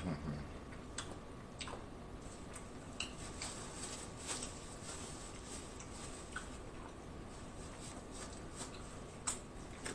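Close-miked chewing of a mouthful of seafood boil: faint wet mouth clicks and smacks scattered through, one a little louder near the end.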